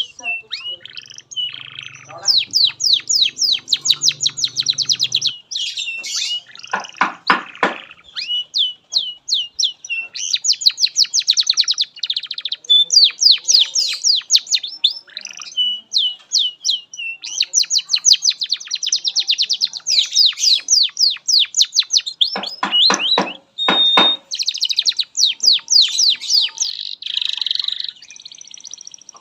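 Domestic canary singing a long unbroken song of rapid trills and repeated high chirps. Twice it drops into a lower, rolling trill.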